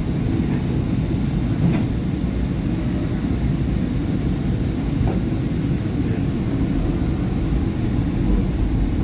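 SEPTA Market-Frankford Line M-4 subway car pulling away from a station just after its doors close: a steady low rumble of motors and wheels on the rails, with a faint click about two seconds in.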